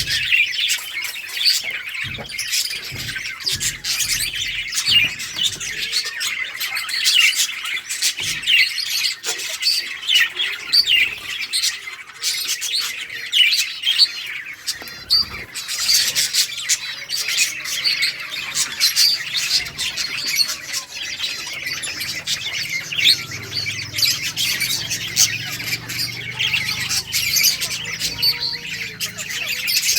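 A flock of budgerigars chirping and squawking without a break, many short overlapping calls and warbles.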